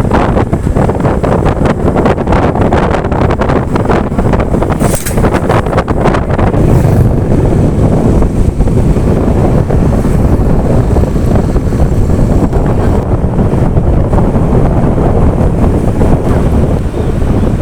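Wind buffeting the microphone on a moving motorcycle, loud and steady, with engine and road noise underneath.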